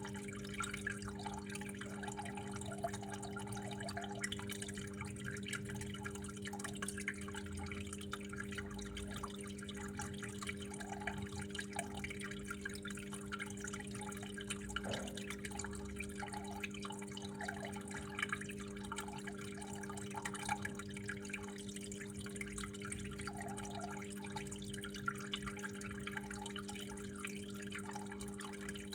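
Water trickling and dripping steadily, with small irregular splashes, over a steady low hum.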